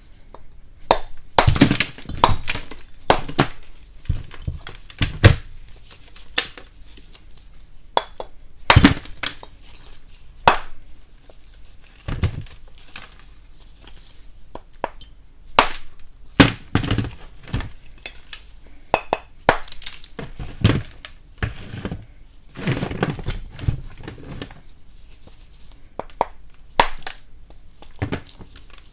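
Lumps of chalk being split and cracked apart: irregular sharp cracks and snaps, some coming in quick clusters of two or three.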